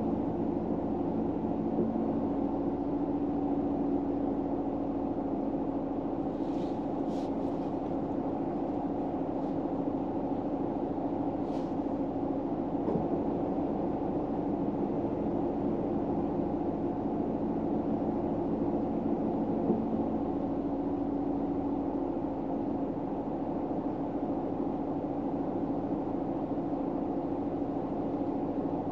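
Steady low hum of a vehicle interior, with a few faint high ticks about seven and twelve seconds in.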